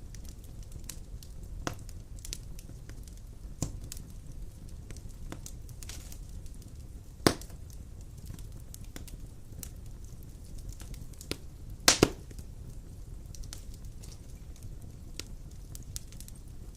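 Large logs burning in a stone fireplace: a steady low rumble of flame with scattered crackles and sharp pops, the loudest about seven seconds in and a quick double pop about twelve seconds in.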